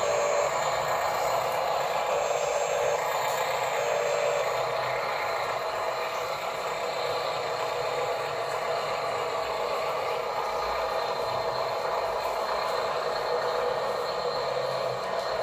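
Small electric motors and plastic gearboxes of radio-controlled toy construction trucks whining steadily as they run, with a light mechanical rattle.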